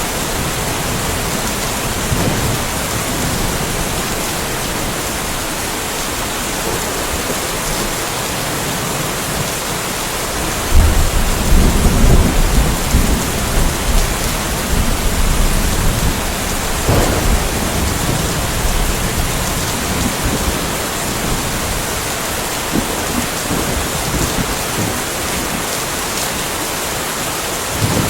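Steady rainfall with rolling thunder: a deep rumble breaks in about eleven seconds in and rolls for several seconds, with lighter cracks a few seconds later, over the constant hiss of rain.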